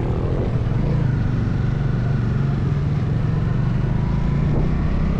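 Motorcycle engine running at a steady speed, with no revving or gear changes.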